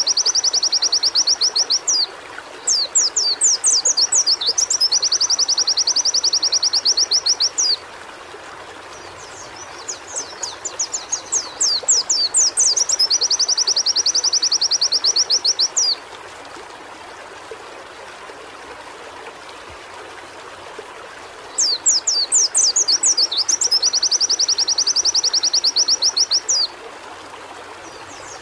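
White-eye (pleci) singing in repeated bouts, each a few quick sweeping whistles that run into a long, fast, high trill several seconds long, with short pauses between bouts. A steady hiss of background noise runs underneath.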